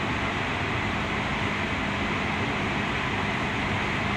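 Interior running noise of a Toyo Rapid Railway 2000 series commuter train: a steady rumble of wheels on rail with a low, even hum beneath it.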